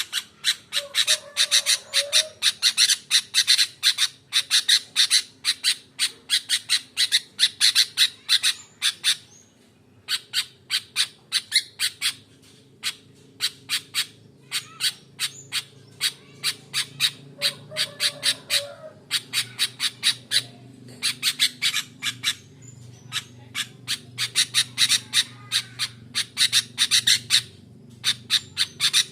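Sooty-headed bulbul (kutilang) giving rapid, sharp repeated calls, several a second, in long runs broken by brief pauses, over a faint low hum. It is a lure call for prompting quiet kutilang to answer.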